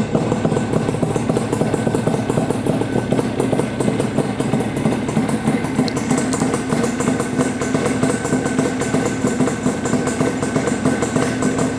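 1976 Yamaha RD400's air-cooled two-stroke parallel twin idling steadily through DG expansion-chamber exhausts, with a fast, even crackle of exhaust pulses.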